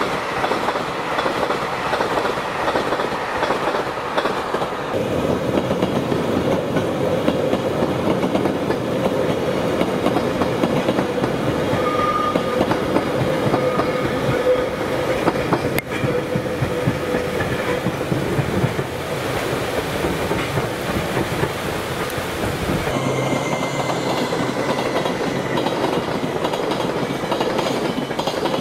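Trains passing at speed, their wheels clattering over the rail joints in a steady rolling rumble. First passenger railcars run by. About five seconds before the end a long container freight train takes over.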